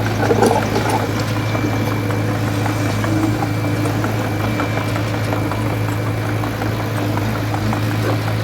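Heavy construction machinery engine, a bulldozer or truck, running steadily at an even, low-pitched speed.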